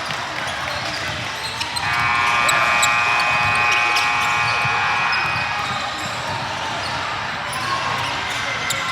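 Busy sports-hall din with sharp ball hits and shoe squeaks. About two seconds in, a steady buzzer-like electronic tone sounds for about four seconds.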